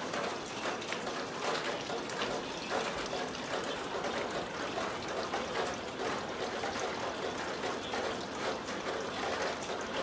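Rainwater streaming through a leaking roof, pouring and splashing steadily, like a hose left running.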